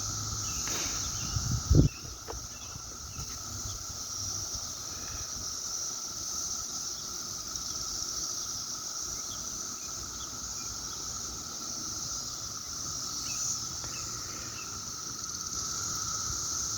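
A chorus of periodical cicadas: a steady high-pitched drone with a second, lower steady buzz under it. There is a brief low thump about two seconds in.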